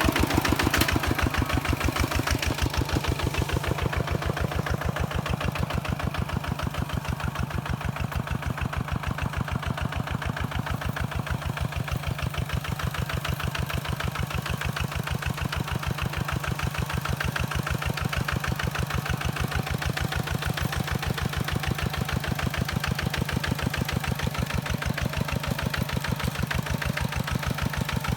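Kubota single-cylinder diesel engine of a two-wheel walking tractor running steadily at idle with an even, rapid chugging beat. It eases off slightly in the first few seconds, then holds a constant pace.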